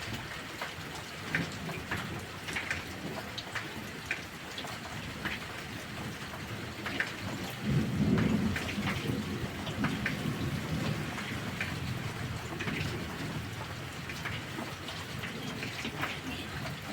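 Heavy rain falling steadily, with many single drops ticking sharply. About seven and a half seconds in, a low roll of thunder swells and then fades away over several seconds.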